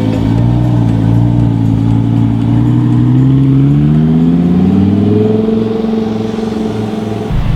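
A car engine pulling hard, its note steady at first and then rising in pitch for several seconds before dropping suddenly near the end.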